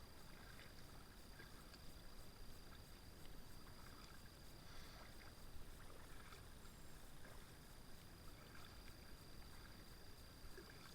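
Near silence on the water, with faint scattered splashes and drips from a kayak paddle.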